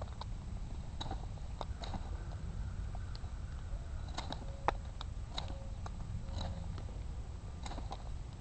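Hardwood fire crackling, with scattered sharp pops and one louder pop about halfway through, over a steady low rumble.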